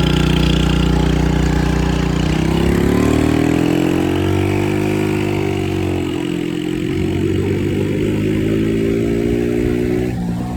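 Lazer 6 50cc moped engine running under throttle: its pitch climbs over a few seconds, eases back, climbs again, then drops suddenly near the end as the throttle closes.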